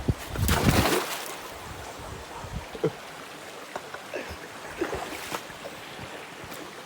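Waterfall and pool water rushing steadily, with a loud burst of splashing noise about half a second in, and a few short voice calls later.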